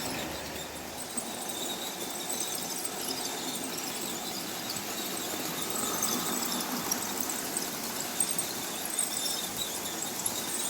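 OO gauge model train running along the track, its wheels and motor making a steady mechanical noise with scattered high-pitched squeaks and light clicks.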